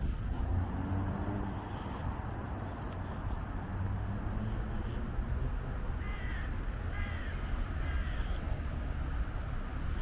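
A bird calls three times, about a second apart, over a steady low rumble of traffic.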